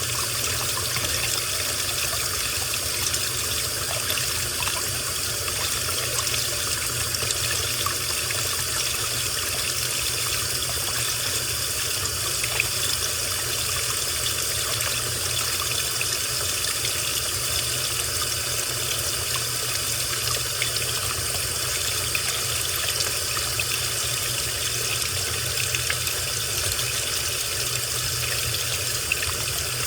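Washing machine running with water trickling and splashing steadily inside the drum.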